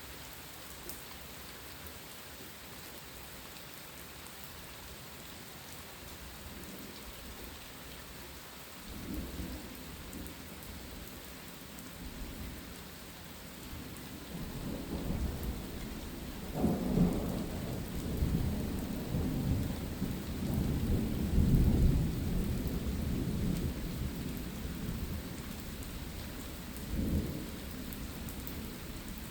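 Steady rain with a long roll of thunder: a low rumble starts about a third of the way in, swells to its loudest about two-thirds through, then dies away, with one last short rumble near the end.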